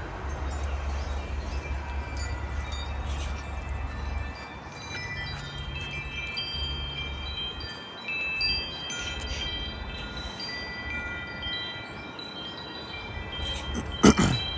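Metal wind chimes ringing in gusty wind, many overlapping held tones that thicken about five seconds in, over wind rumbling on the microphone. A sharp, loud knock near the end.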